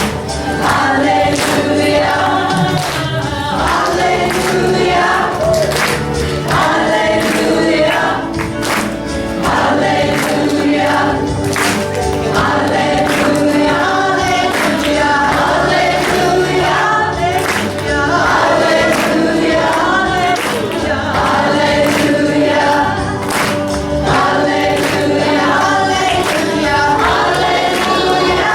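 A choir singing a gospel-style song, with a percussive beat struck at regular intervals.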